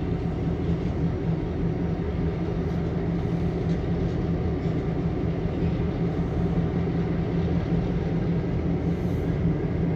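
Diesel locomotives of a CN freight train running with a steady low rumble during a slow switching move.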